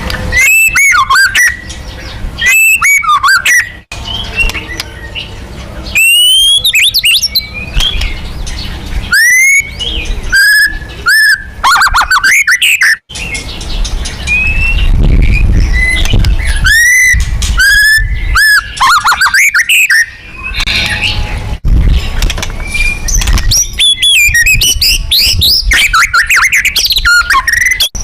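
White-rumped shama singing loudly in varied phrases: ringing whistles that swoop up and down and rapid rattling trills, delivered in bunches with short pauses. This is the agitated provocation song used to rile up other shamas. A low rumble runs underneath.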